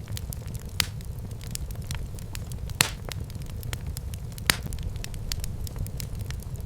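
Wood fire burning in a fireplace: a steady low rumble of flames under a constant scatter of small crackles. Three sharper pops stand out, about a second in, near three seconds and past the middle.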